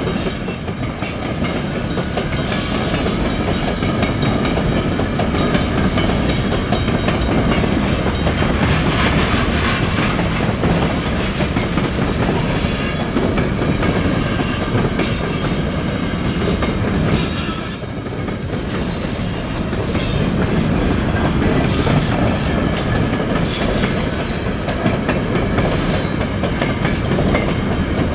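CN gypsum freight train's cars rolling past with a steady rumble of wheels on rail, and brief high wheel squeals again and again.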